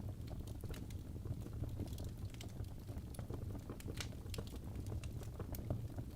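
Birch logs burning in a fireplace, crackling with frequent irregular pops over a steady low rumble of the flames. The loudest pop comes about four seconds in.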